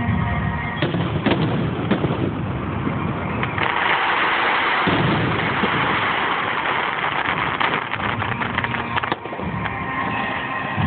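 Fireworks display: sharp bangs and low booms of shells bursting, then a long stretch of dense crackling from about three and a half seconds in until near the end.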